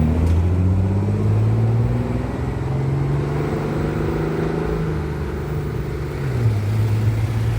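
A road vehicle's engine running close by. Its pitch rises over the first few seconds as it pulls away, holds steady, then drops about six seconds in.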